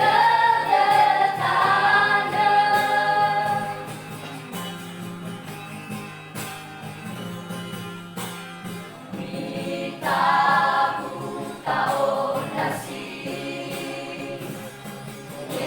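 A school vocal group singing a Christian worship song in harmony. The voices swell loudest at the start and again about ten seconds in, and are softer in between.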